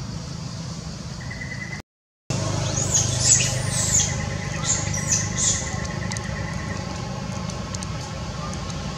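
Small birds chirping: a run of short, high calls that bend up and down, clustered in the middle, over a steady low hum. The audio drops out completely for about half a second around two seconds in.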